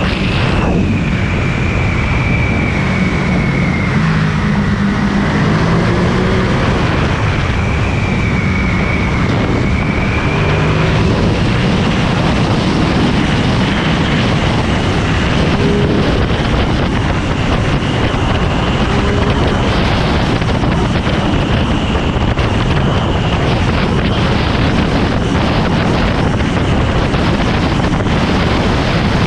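Ducati Monster 937's 937 cc L-twin engine running under way, its pitch shifting up and down with the throttle for the first ten seconds or so and then holding steadier, over heavy wind noise on the microphone.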